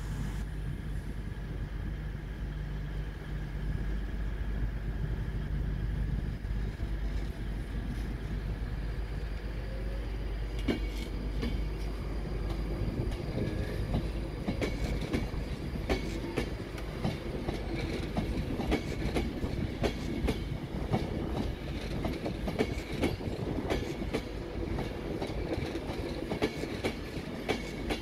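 A train running through the station: a steady low hum at first, then from about ten seconds in the wheels clatter over rail joints and points in a quick, uneven string of clicks.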